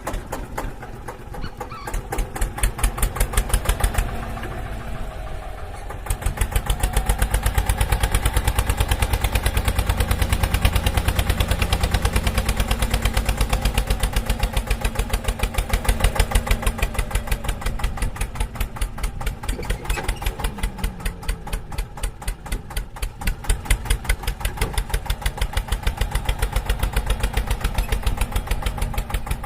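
Tractor-type engine running with an even, rapid chugging beat, growing louder about six seconds in and holding steady after.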